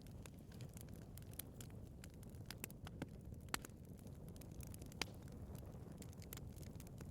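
Wood fire burning in a fireplace: a steady low rumble of flames with scattered crackles and sharper pops, the loudest about three and a half and five seconds in.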